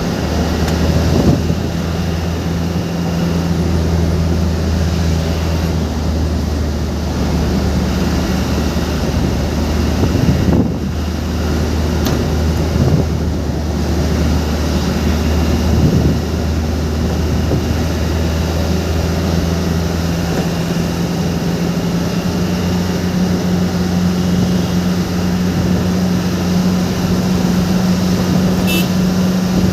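Steady drone of a vehicle's engine and road noise while driving. The low hum shifts in pitch about two-thirds of the way through.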